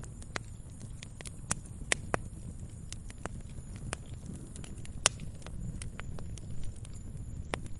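Wood fire crackling in a fireplace: irregular sharp pops and snaps over a low steady rumble, with the loudest pop about five seconds in.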